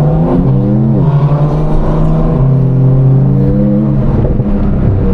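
Sports car engine running under light throttle, its pitch climbing and then dropping back a few times.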